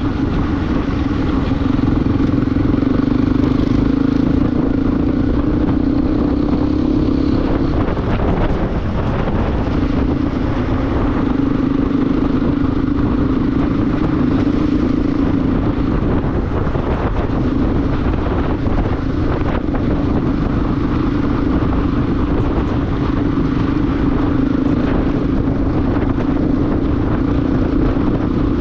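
Motorcycle engine running at a steady cruise under a constant rush of wind noise. The engine note eases off briefly twice, about eight and sixteen seconds in, then picks up again.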